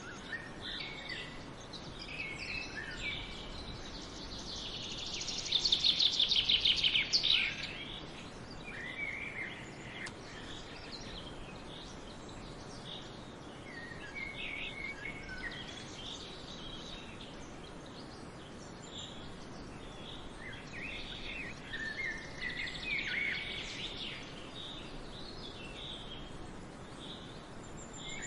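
Wild songbirds chirping and singing over a steady outdoor background hiss. A loud, rapid trilling song comes about five seconds in and lasts a couple of seconds, and another burst of calls comes about twenty-two seconds in.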